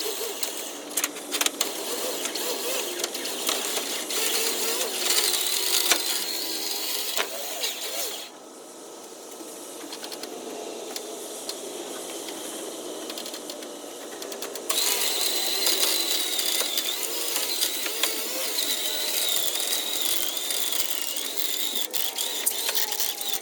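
Electric winch running and winding in its cable under load as it pulls a car onto a trailer, with a wavering whine and a steady run of clicks. It goes quieter for several seconds in the middle, then comes back louder.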